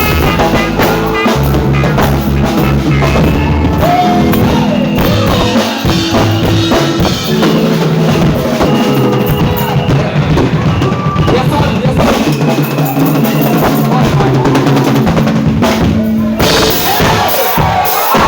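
A live band plays an instrumental groove on drum kit, with bass drum and snare hits over a bass line and held pitched notes.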